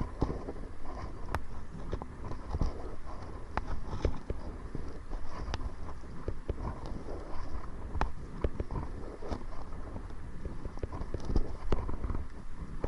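A kayak being paddled into the wind: water splashing and sloshing from the paddle strokes and against the hull, with scattered sharp clicks and knocks. Wind rumbles on the microphone throughout.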